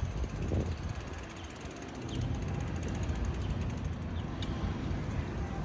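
Steady low rumble of outdoor street noise: wind buffeting the microphone and road traffic.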